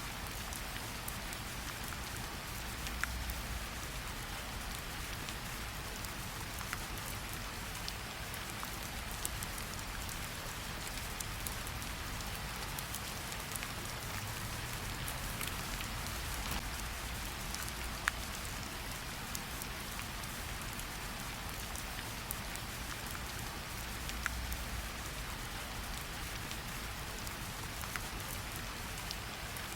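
Steady gentle rain pattering on tree leaves, a constant hiss with scattered separate drips, a few louder single drops landing now and then.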